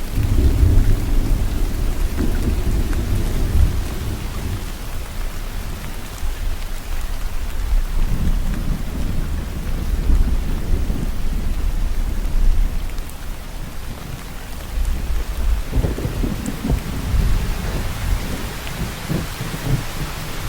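Steady rain falling, with low, rolling thunder swelling and fading three times: at the start, in the middle and near the end.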